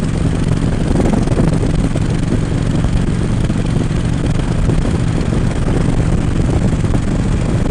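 Harley-Davidson Road King's V-twin engine running steadily at cruising speed, with wind rushing past the microphone.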